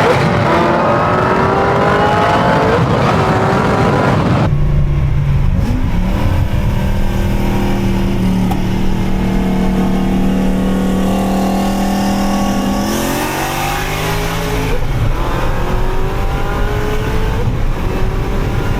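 Car engine at full throttle in a street race, its pitch climbing again and again as it pulls through the gears. There is an abrupt change about four and a half seconds in.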